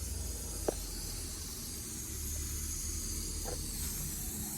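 Steady background hiss over a low, constant hum, with a faint click about a second in and another near the end.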